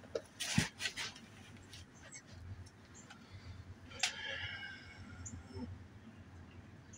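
Metal hand tools clinking and knocking while a socket or wrench is fitted onto a mower blade bolt. There is a sharp knock about half a second in and a louder metallic clink about four seconds in that rings briefly.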